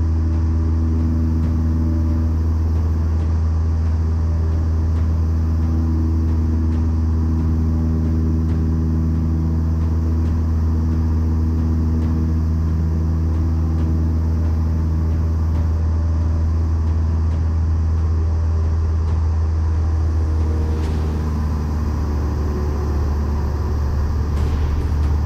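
Cessna 152's four-cylinder Lycoming piston engine and propeller droning steadily in flight, heard from the cockpit. The pitch shifts slightly near the end.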